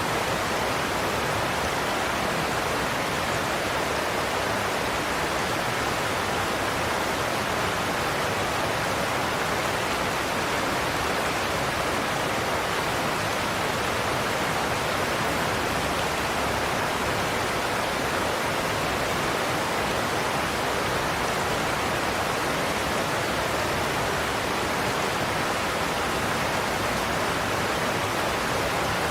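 Waterfall: water pouring over a cliff into a plunge pool, a steady, even rushing noise that does not change.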